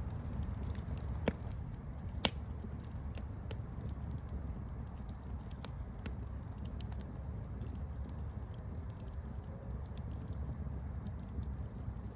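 Campfire crackling: a steady low rush of burning with scattered sharp pops and snaps, the two loudest about one and two seconds in.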